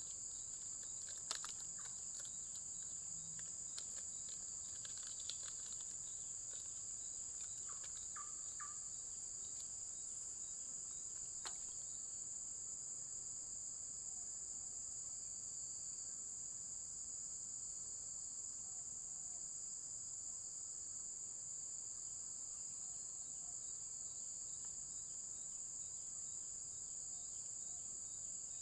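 Steady chorus of insects such as crickets: an unbroken, high, even trilling. A few faint clicks and short chirps sound in the first ten seconds or so.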